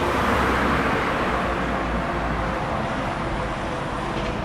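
Road traffic noise: a passing vehicle that is loudest about half a second in and slowly fades.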